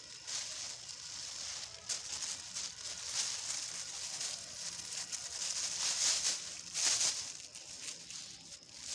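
Irregular rustling and crinkling of old plastic and dry vegetation being pulled and handled, swelling several times.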